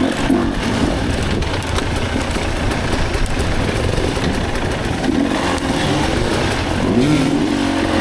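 Dirt bike engine running under load while being ridden, its pitch rising and falling as the throttle opens and closes.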